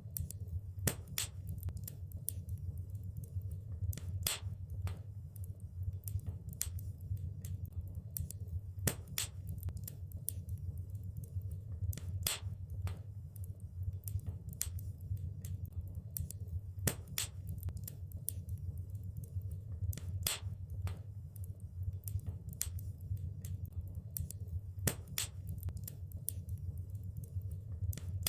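Fireplace fire crackling, with irregular sharp pops and snaps, a few louder than the rest, over a steady low rumble.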